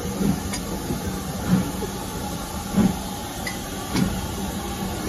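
Passenger train in motion, heard from an open carriage window: a steady rumble of the coaches on the track, with a dull beat about every second and a quarter.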